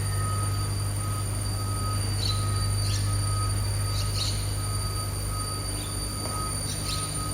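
BYD electric garbage truck's hydraulic compactor running with a steady low hum, a high beep repeating about every half second over it, and short squeaks now and then.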